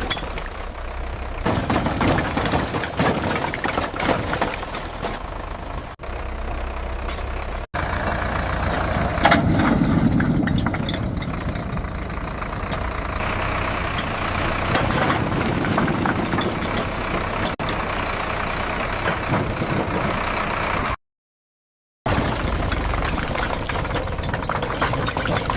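Tractor diesel engine running, heard across several clips cut together with abrupt changes in sound and about a second of silence near the end.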